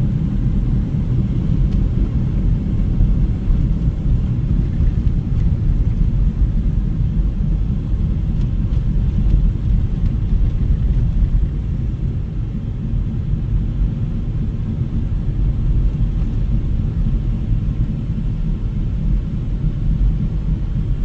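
Wind buffeting the microphone outdoors in a snowstorm: a steady, loud low rumble with no breaks.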